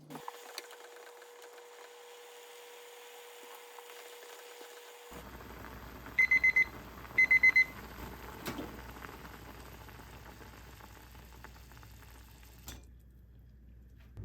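Microwave oven's end-of-cooking signal: two quick runs of high beeps about a second apart, over a low steady hum.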